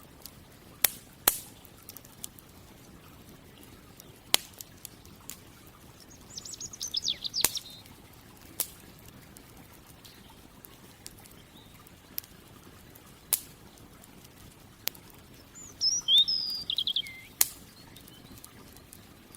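Campfire crackling: sharp, irregular pops of burning wood over a soft low hiss. A bird sings twice, a quick trill of high notes about six seconds in and another short, sliding phrase about sixteen seconds in.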